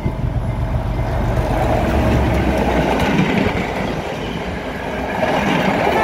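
Passenger train passing close by at speed: a deep low rumble for the first second or so, then the steady rush and clatter of the red coaches' wheels on the track.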